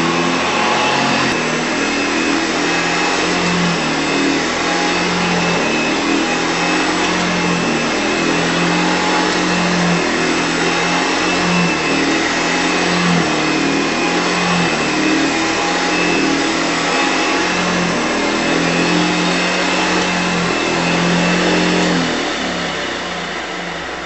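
Vintage Hoover Model 925 upright vacuum cleaner running, a steady rushing motor sound with a low hum that shifts up and down in pitch about every second. It begins to die away near the end.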